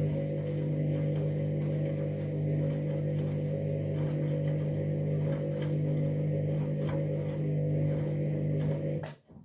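Candy washing machine running with a steady hum and faint clicking, then stopping abruptly near the end.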